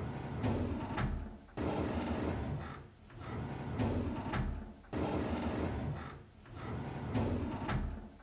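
A drawer sliding open with a rumbling scrape, repeated in a loop about every three and a third seconds. Each pass starts abruptly and has a few sharp clicks partway through.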